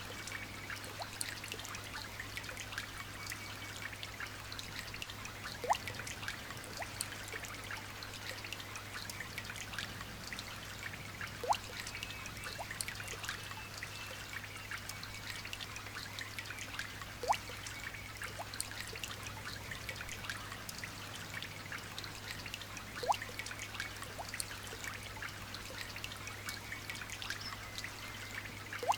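Light rain falling steadily, with many small drops pattering and water trickling, and a louder single drop plinking about every six seconds. A faint steady low hum runs underneath.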